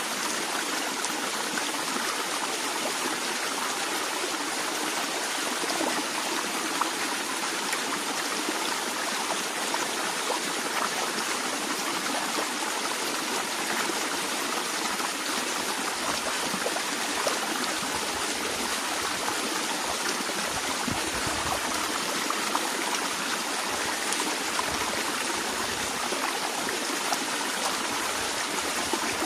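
Natural water flowing steadily, an even rush with a light trickle, with a few faint low rumbles in the second half.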